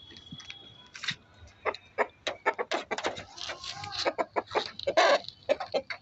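Aseel chicken clucking: a rapid run of short, sharp calls that starts about a second in and is loudest near five seconds in.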